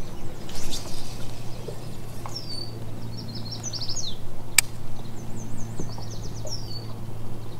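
Songbird singing in two short runs of quick, high chirping notes over a steady low hum, with a single sharp click about halfway through.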